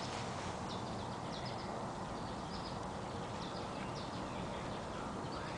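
Steady outdoor background noise with faint, short bird chirps repeating every half second or so.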